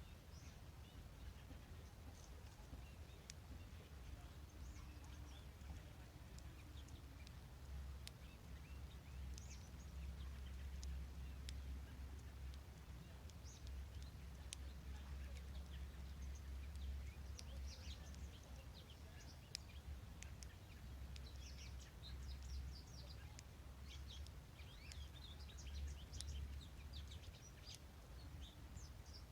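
Faint, scattered songbird chirps and calls, thicker near the end, over a steady low background rumble.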